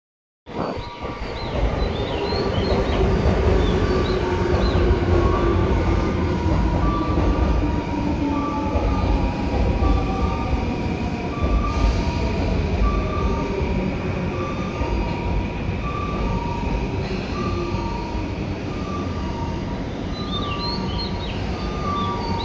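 Tobu 9000 series electric train running, heard from on board: steady rail and motor noise begins abruptly, with a tone that slowly falls in pitch over the first two thirds. Short high wheel squeals come near the start and again near the end.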